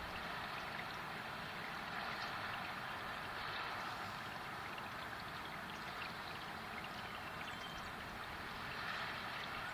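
Hail shower falling: a steady hiss with faint scattered ticks of hailstones landing.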